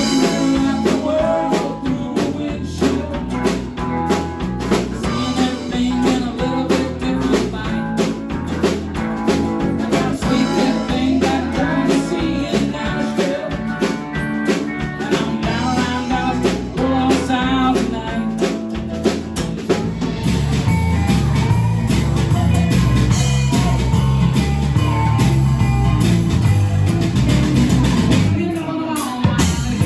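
A rock band song with singing over guitar and drum kit. It starts suddenly after a brief gap and grows fuller and louder about two-thirds of the way through.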